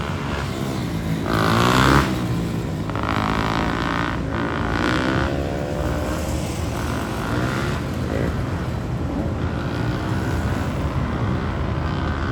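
A group of motorcycles riding past, several engines revving up and down over one another, the loudest pass swelling about two seconds in.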